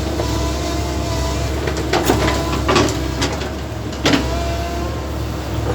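Backhoe's diesel engine running steadily, with a few sharp metallic clanks about two, three and four seconds in.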